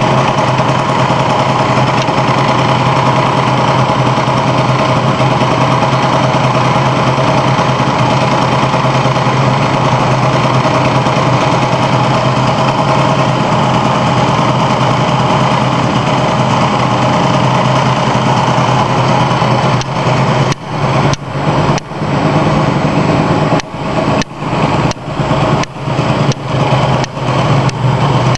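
Kymco Bet & Win scooter engine running through a Sito Plus aftermarket exhaust, a loud steady note. From about two-thirds of the way in, the sound dips briefly again and again, roughly twice a second, as the throttle is worked.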